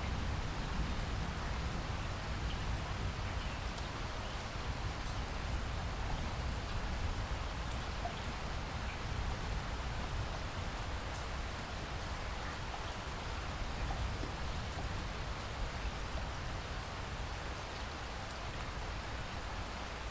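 Steady rainfall, an even hiss with a low rumble beneath it and scattered faint drop ticks.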